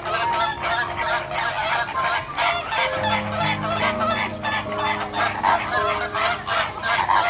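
Poultry calling noisily, many calls in quick succession, over background music with held notes.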